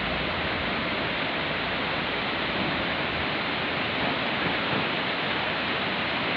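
River water rushing, a steady even roar of flowing water.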